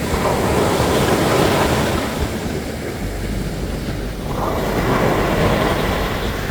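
Sea waves breaking and washing up a sandy beach, one surge right at the start and another about four seconds in.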